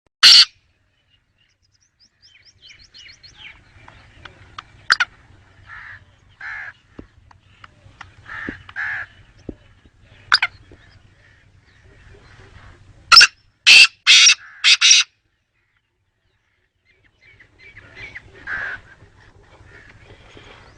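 Black francolin calling: one loud short note at the start, then a quick run of about five loud short notes about two-thirds of the way through, with quieter bird calls scattered between.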